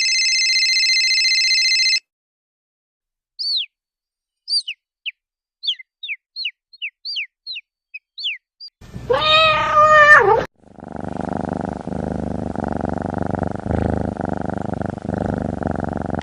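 An electronic phone ringtone holds a steady tone and cuts off after about two seconds. A baby chick then peeps about a dozen times, in quick falling chirps. A cat then lets out a loud wavering yowl and goes into a continuous low growl, as cats do when fighting.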